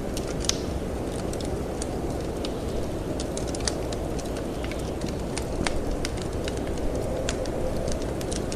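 Wood fire crackling in a fireplace, with frequent sharp pops and ticks scattered irregularly over a steady low rush of wind.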